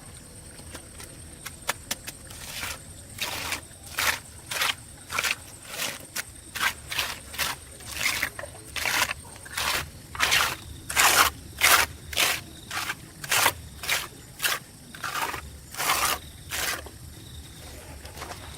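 Repeated scraping strokes, roughly two a second, starting a couple of seconds in and stopping shortly before the end.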